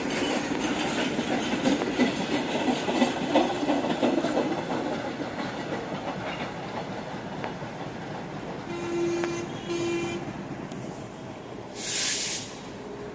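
Train wheels clattering over rail joints, fading as the train moves away. Two short horn blasts come about two-thirds of the way through, and a brief sharp hiss near the end.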